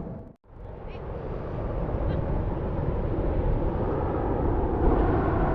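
A brief dropout near the start, then distant aircraft engine noise slowly growing louder as it approaches, heard through wind buffeting on the microphone.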